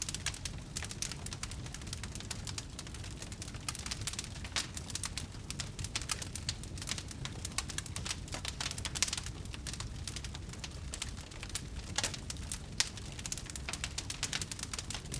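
Wood fire in a fireplace crackling steadily, dense irregular small pops and snaps over a low rumble of the flames, with one sharper pop near the end.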